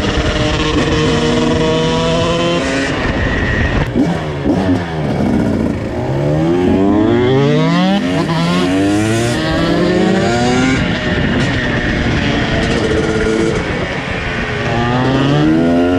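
Two KTM supermoto motorcycle engines revving hard, their pitches repeatedly climbing and dropping as they accelerate and change gear, the two engine notes overlapping and crossing.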